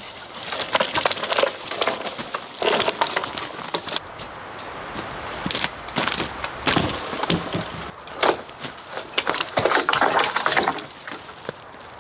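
Dry dead wood being handled and broken: irregular clusters of cracking, snapping and crunching.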